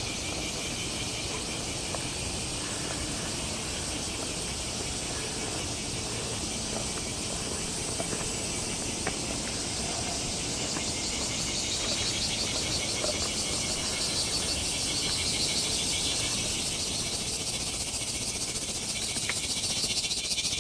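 A chorus of many cicadas buzzing: a dense, steady, high-pitched drone that swells louder over the second half.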